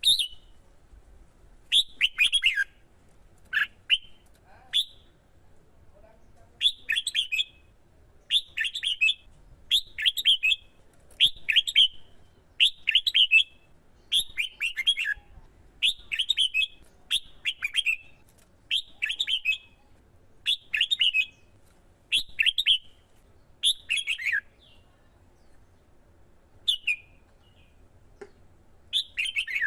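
Red-whiskered bulbul singing: short, bright warbled phrases repeated about every second and a half, growing sparser near the end.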